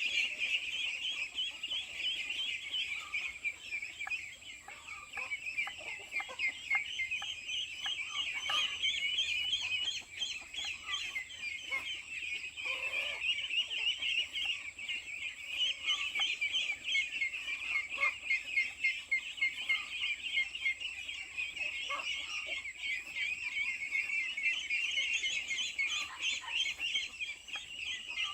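A flock of chickens calling: a dense, continuous chatter of high peeps, with occasional lower clucks.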